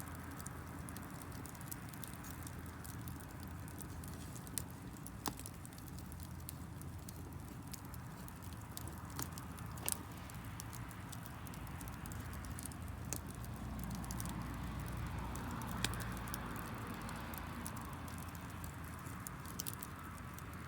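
Wood fire of damp firewood crackling, with scattered sharp pops (the loudest about 5, 10 and 16 seconds in) over a steady low rush of burning.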